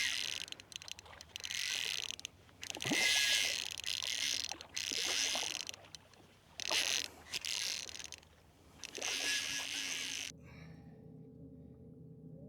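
Fly reel ratcheting in spurts of a second or so during the fight with a hooked redfish. It cuts off abruptly near the end, leaving only faint low steady tones.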